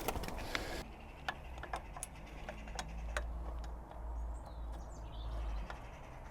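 Scattered light clicks and taps at irregular intervals, as of small metal motorbike parts and tools being handled, over a low steady rumble.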